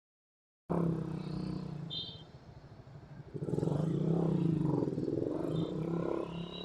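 Suzuki Raider R150 motorcycle engine running on the move in traffic. The sound cuts in abruptly under a second in, and the engine note grows louder and wavers in pitch from about halfway.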